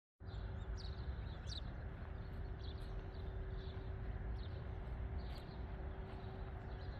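Small birds chirping: short high notes that drop in pitch, about one or two a second, over a steady low rumble and a faint steady hum.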